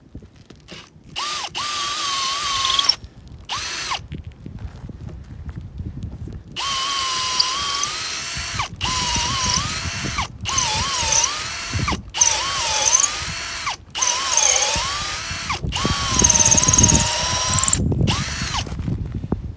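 Electric drill boring in repeated trigger bursts, first briefly and then in a long series of runs broken by short stops. Its motor whine dips and wavers in pitch as the bit loads up in the cut.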